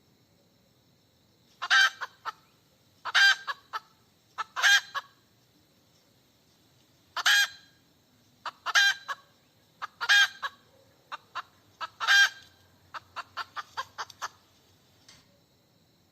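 A hen cackling: seven loud drawn-out squawks, each led by one or two short clucks, then a quick run of short clucks near the end.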